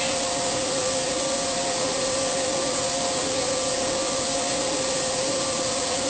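A machine running steadily: an even, loud hiss with a constant whine.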